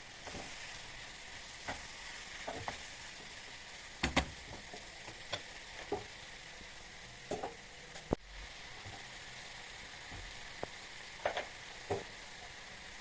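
Food sizzling steadily in a hot pan, with a utensil clicking and tapping against the pan a dozen or so times as it is stirred.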